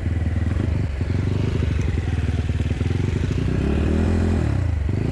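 Enduro motorcycle engine running under throttle, its revs rising and falling as it is ridden: a brief drop about a second in, and a climb then ease-off near the end.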